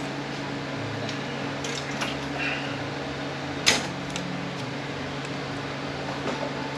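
A few short metal clicks from hand tools being handled on a transmission case, the loudest one about halfway through. Behind them runs a steady low hum.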